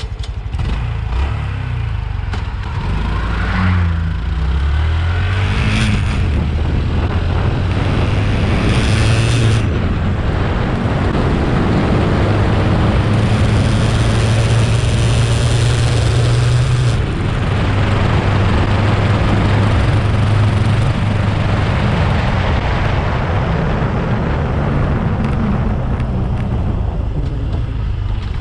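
Honda CT125's single-cylinder engine accelerating through the gears, its pitch climbing and falling back at each shift in the first several seconds, then running on at speed under a rising rush of wind noise, with a brief dip about two-thirds of the way through.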